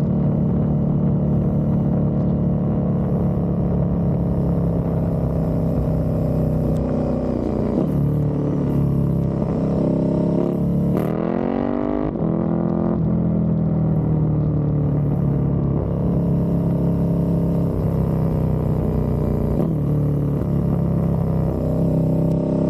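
KTM 1290 Super Duke R Evo's V-twin running through a full titanium exhaust with an Akrapovic ECU flash, holding a steady drone. Around the middle the revs rise and drop several times, with one clear rising sweep, then settle back to steady running.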